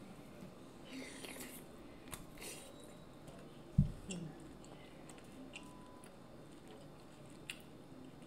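Close-miked chewing of sauce-coated boiled seafood, with small wet clicks and smacks, and a dull thump about four seconds in.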